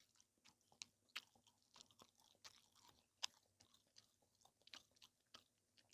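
Faint chewing of food: soft, irregular mouth clicks and smacks.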